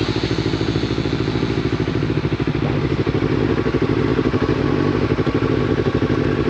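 Yamaha MT-03 motorcycle engine running steadily through a Scorpion full-system aftermarket exhaust, a rapid, even exhaust pulse.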